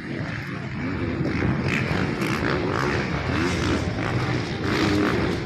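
Motocross dirt bike engines revving up and down over and over, their pitch rising and falling as the bikes race.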